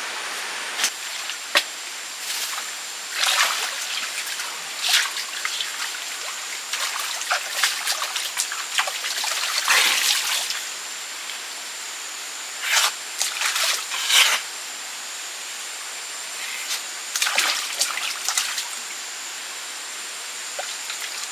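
Water trickling steadily, with irregular splashes and sloshes every second or few.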